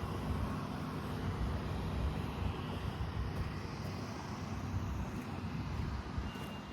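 John Deere 5095M tractor's diesel engine running steadily, with wind buffeting the microphone.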